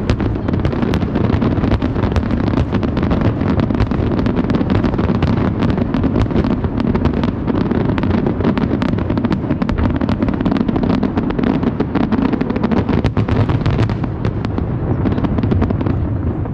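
Fireworks going off in a dense, continuous barrage of crackles and bangs over a steady rumble, easing slightly near the end.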